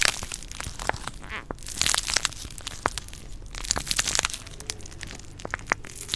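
Stones rubbed and ground against each other: gritty scraping and crunching in waves, with many scattered sharp clicks.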